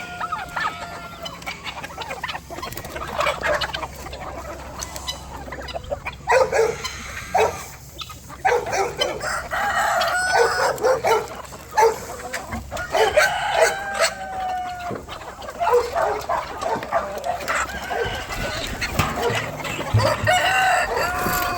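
A flock of free-range chickens clucking and calling, with roosters crowing several times, the calls overlapping.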